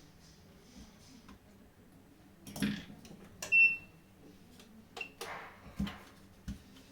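Scattered small clicks and knocks of tools and plastic controller parts being handled, with one short, high-pitched ping about halfway through.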